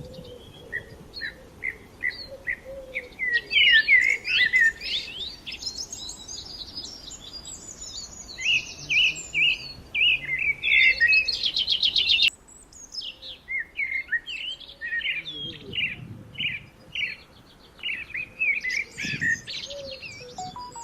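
Several small songbirds chirping and trilling together, with many short, quick notes and rapid buzzy trills overlapping; the chorus breaks off abruptly about twelve seconds in and resumes at once.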